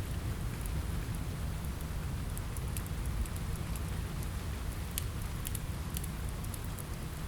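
Steady rain with a low rumble, mixed with the sharp pops and crackles of a wood fire in a fireplace, several crackles clustered in the middle.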